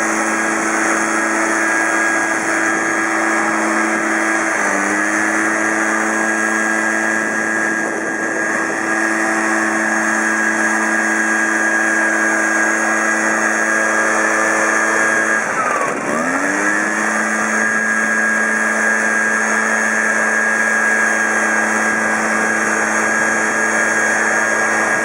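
Kawasaki two-stroke backpack leaf blower running steadily at high throttle. Its pitch dips briefly and climbs back twice, a little once about five seconds in and more deeply past the middle, as the throttle is eased off and opened again.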